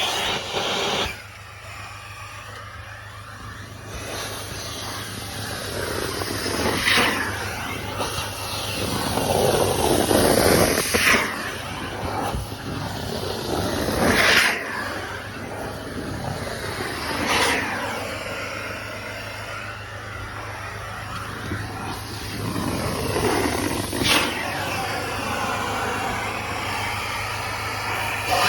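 Carpet extraction wand spraying and vacuuming carpet: a steady loud rushing hiss over a low machine hum, swelling every few seconds as the wand is drawn across the carpet in strokes.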